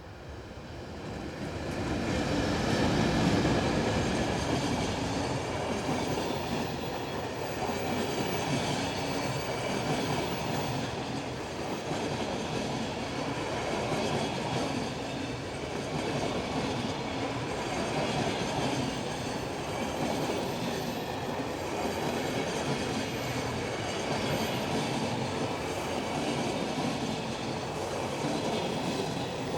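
Freight train passing, its wagons' wheels rolling along the rails. The sound builds over the first few seconds, then holds steady.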